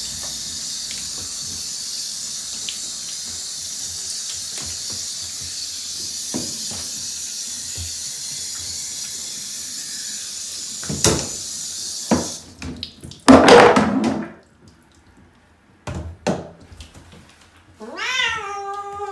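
Running water hissing steadily as a Bengal cat is washed, with scattered knocks; the water cuts off suddenly about twelve seconds in. A loud noisy burst follows, then near the end the cat gives a long meow that rises and falls in pitch.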